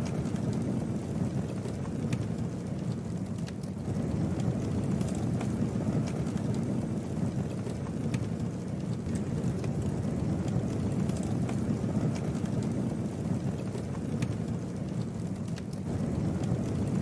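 Campfire burning: a steady low rush with a few scattered faint crackles and pops.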